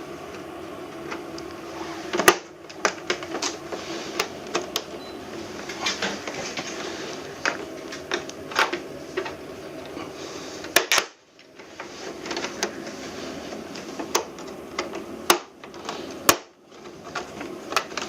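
Irregular sharp clicks and knocks of the plastic casing of an air conditioner being handled and unclipped during disassembly, over a steady low hum.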